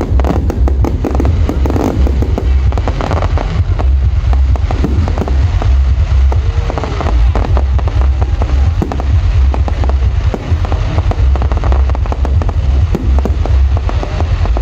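Fireworks display: a continuous barrage of bangs and crackling over a heavy low rumble.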